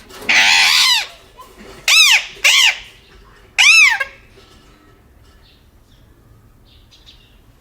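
Parrot squawking: four loud, harsh calls, each rising and then falling in pitch. The first is the longest, and the calls stop about four seconds in.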